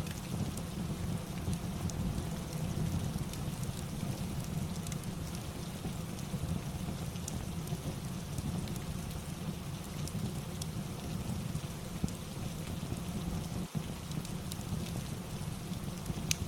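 Steady rain ambience with a low, even rumble, sprinkled with small sharp crackles of a wood fire in a fireplace.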